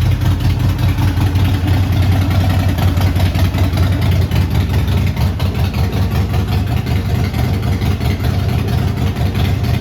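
2019 Harley-Davidson Roadster's air-cooled 1200 cc V-twin idling steadily, a loud, even low rumble.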